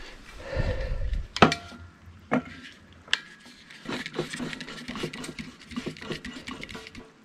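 A small propane canister being handled and screwed onto a portable water heater's gas fitting: a low bump near the start, a few sharp metallic clicks, then a run of small clicks and scraping.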